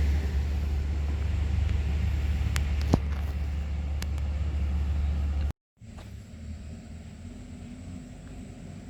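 Heavy vehicle's diesel engine running with a steady low rumble, with one sharp knock about three seconds in. The engine sound cuts off suddenly past the middle, leaving a much quieter outdoor background.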